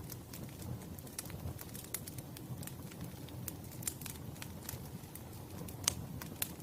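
Wood fire crackling: irregular snaps and pops over a low steady rumble, with a sharper pop near the end.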